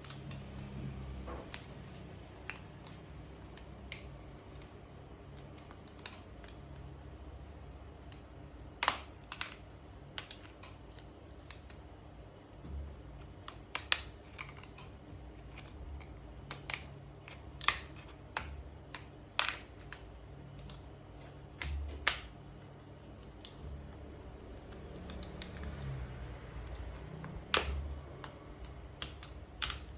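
Irregular sharp clicks and taps of small tools and hard plastic phone parts being handled while an Oppo A53 smartphone is taken apart, over a low steady hum.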